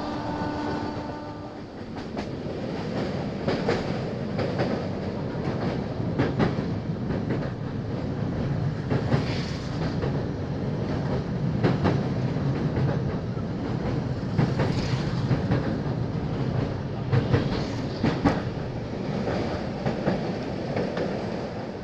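Indian Railways express passenger train running at speed, heard from inside the coach: a steady rumble of wheels on track with irregular clacks as the wheels run over rail joints. The low rumble grows heavier in the middle as the train crosses a river bridge. A brief steady tone is heard at the very start.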